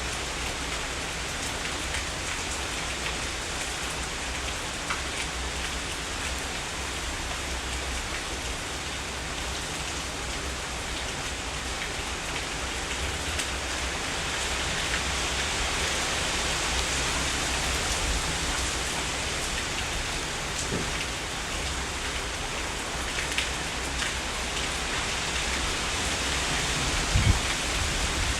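Heavy rain falling steadily in a dense, even hiss, growing a little heavier about halfway through.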